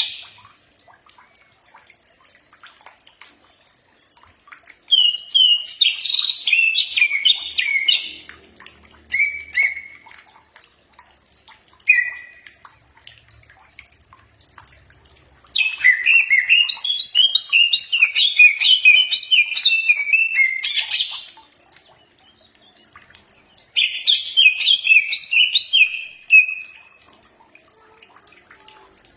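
Cucak ijo (green leafbird) singing: bursts of rapid, warbling chirps and whistled notes, the longest lasting about five seconds, separated by pauses of a few seconds.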